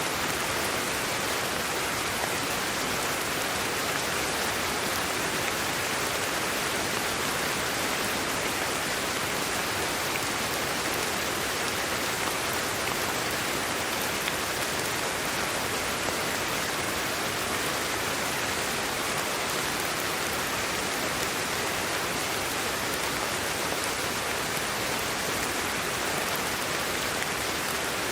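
Steady sleep-aid white noise: an even, unbroken hiss close to the sound of rain, without changes in level.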